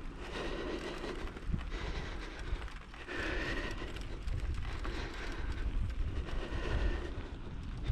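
Bicycle riding over a rough dirt track: the bike rattles and rumbles, with wind buffeting the microphone.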